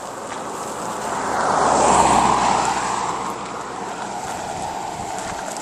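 A vehicle driving past, its tyre and engine noise swelling to loudest about two seconds in, then fading away.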